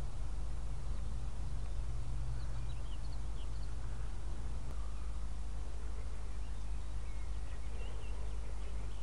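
Faint bird chirps a few times over a steady low rumble and hiss.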